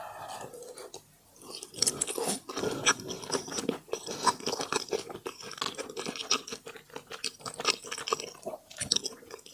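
Close-miked eating: food chewed with crisp, crackling crunches in quick succession, starting about a second and a half in.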